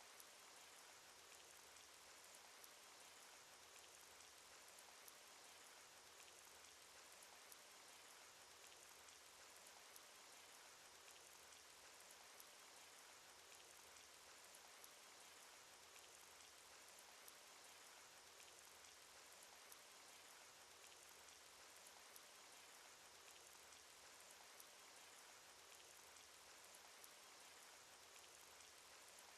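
Rain sound effect from an animated cartoon: a faint, steady hiss of rain with light raindrop ticks scattered through it.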